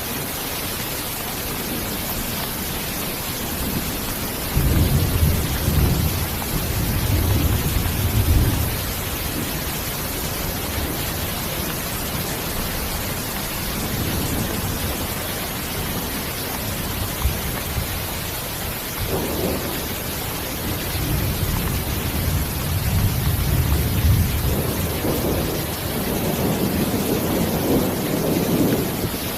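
Steady rain, an even hiss, with thunder rumbling low twice: once about five seconds in and again, longer, from about twenty seconds in to near the end.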